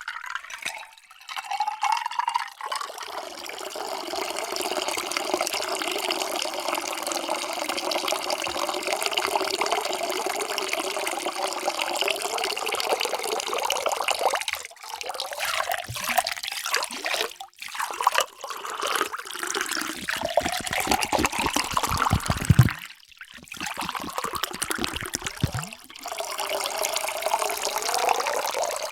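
Water poured into a drinking vessel: one long pour of about twelve seconds, then several shorter pours broken by brief pauses. In some of the pours the ringing tone of the vessel rises in pitch as it fills.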